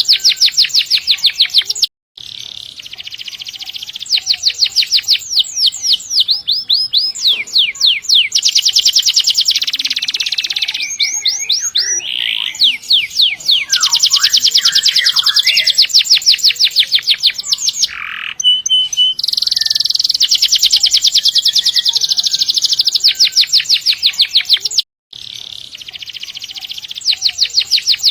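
Domestic canary singing in long rolls of rapid, high-pitched repeated notes, with brief breaks about two seconds in and near the end.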